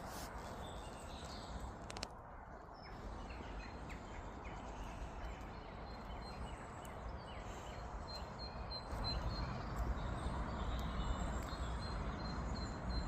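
Outdoor woodland ambience with a steady background hiss and faint bird calls, a row of short high chirps in the middle. From about nine seconds in, a low rumble rises and the sound gets louder.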